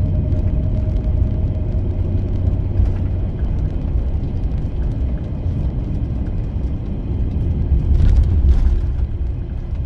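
Van engine and road noise heard from inside the cabin while driving: a steady low rumble, with a brief louder swell about eight seconds in.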